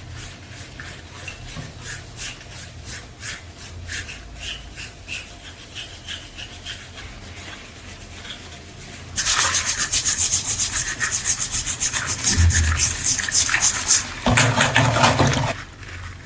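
Hand sanding or rubbing strokes on a workpiece, steady at about two to three strokes a second. About nine seconds in they give way to a much louder, faster scrubbing that stops shortly before the end.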